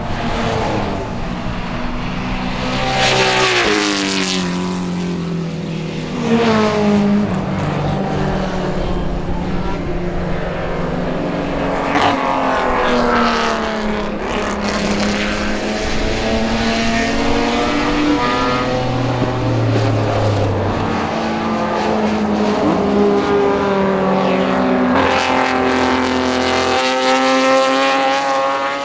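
Ferrari V12 race cars being driven hard past the microphone, one after another. Each engine note climbs as the car accelerates, then falls away as it goes by.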